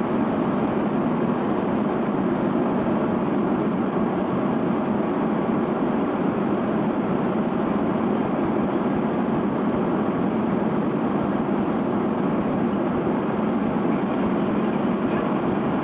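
Sand-unloading ship's conveyor belt running, with machinery and moving sand blended into one steady, unchanging noise.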